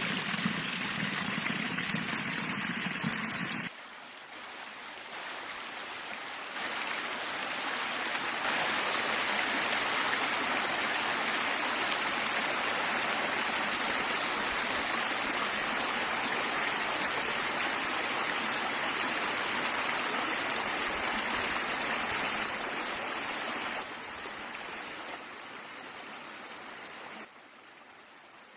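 Running water of a stream, a steady rushing hiss. It drops abruptly about four seconds in, builds back up in steps, then falls away in steps near the end.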